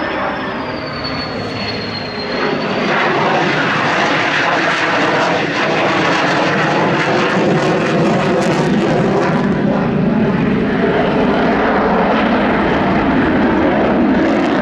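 An F-16 fighter jet's engine is loud as it flies past. The noise swells about two seconds in and then stays steady, with a thin high whine falling in pitch at the start.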